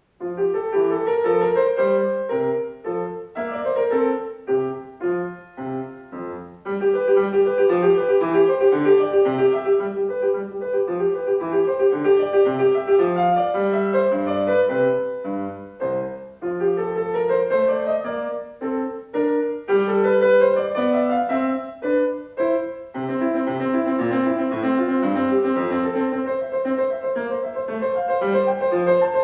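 Solo piano playing a short classical-style piece, starting abruptly out of silence.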